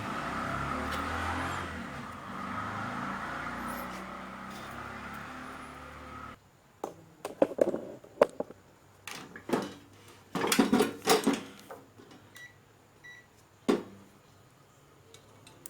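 Microwave oven running with a steady hum, from an oven whose fan runs but which does not heat; the hum cuts off abruptly about six seconds in. Then a series of clicks and knocks from handling, and two short high beeps.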